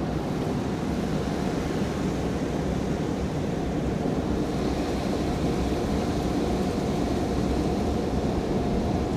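Automatic tunnel car wash running around the car, heard from inside the cabin: a steady rush of water spray and machinery.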